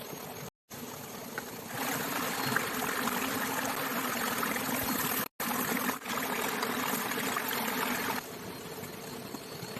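Steady noise of falling and trickling water, louder through the middle. It is cut to silence twice, briefly, by edits: about half a second in and about five seconds in.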